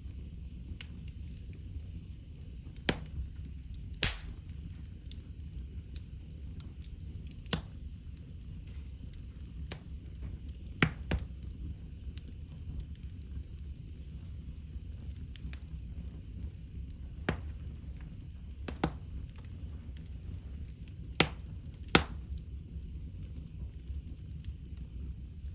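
Wood fire burning in a fireplace: a steady low rumble and hiss with irregular sharp crackles and pops, a few of them louder, around 4, 11 and 21 to 22 seconds in.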